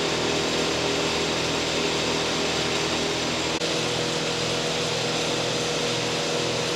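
Steady mechanical whirring noise with a faint steady hum under it, running evenly throughout.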